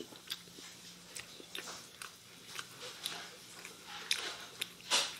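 Close-up eating sounds of a person chewing roast chicken with the mouth open: irregular wet smacks and clicks, with a louder smack about five seconds in.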